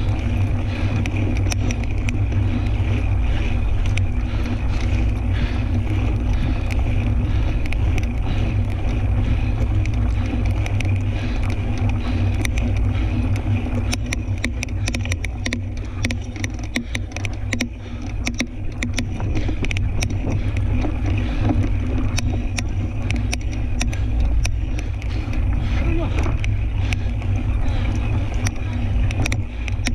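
Riding noise from a fat-tire tandem bicycle on a dirt trail: steady wind rumble on the microphone, with rattling clicks from the bike and trail starting about halfway through.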